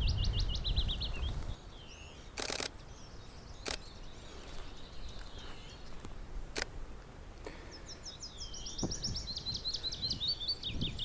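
A songbird sings two fast, descending phrases of many short high notes, one in the first second and a half and another from about the middle to the end. A camera shutter fires a short rapid burst about two and a half seconds in, then single clicks about a second and three seconds later.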